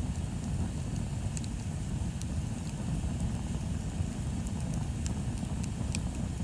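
Wood bonfire burning: scattered sharp crackles and pops of the burning wood over a steady low rumble.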